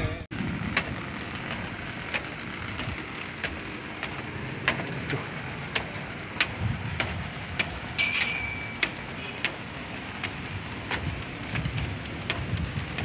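Rain, with scattered drops tapping sharply near the microphone over a steady low rumble. A brief high beep sounds about eight seconds in.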